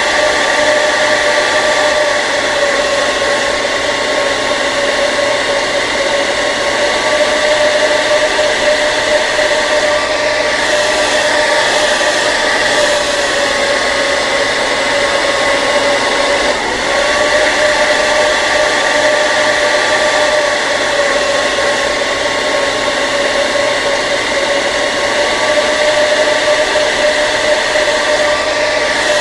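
Electric hair dryer running continuously: a steady, even rush of fan noise with a constant whine, and a momentary dip a little past halfway.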